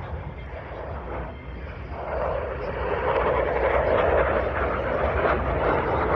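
Airplane flying overhead, its engine noise a broad rush that swells louder from about two seconds in and stays loud.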